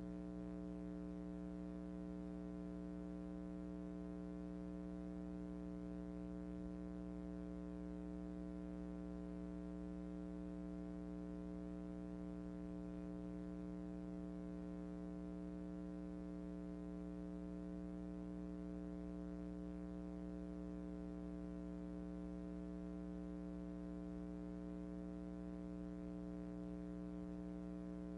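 Steady electrical hum with a buzzy edge, unchanging in pitch and level, typical of mains hum in an old recording's audio chain.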